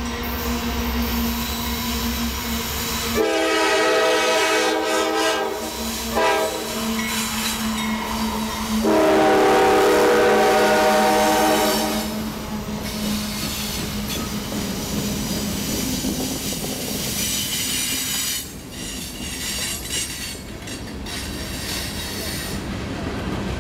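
Diesel freight locomotive passing close by and sounding its horn: a long blast, a short one, then another long one. Afterwards the locomotives' engines drone and the hopper cars rumble and clatter over the rails.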